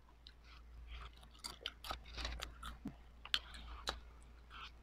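Close-up mouth sounds of eating chips with ice cream: chewing and crunching, with scattered sharp clicks.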